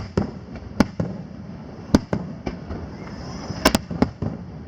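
Aerial fireworks shells bursting overhead: a string of sharp, irregularly spaced bangs, about eight in all, including a quick double bang a little over three and a half seconds in.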